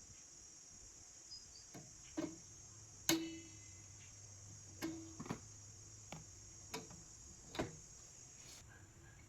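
Metal parts and tools being handled: about nine sharp clicks and knocks at uneven intervals, the loudest about three seconds in with a brief metallic ring. A steady high-pitched hiss runs underneath.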